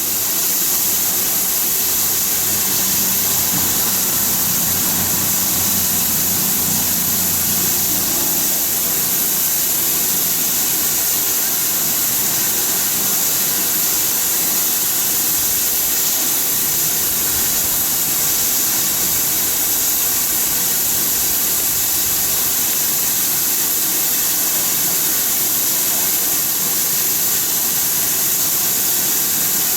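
Steam locomotive blowing off steam: a loud, steady hiss that holds at one level throughout, with a low hum under it for roughly the first eight seconds.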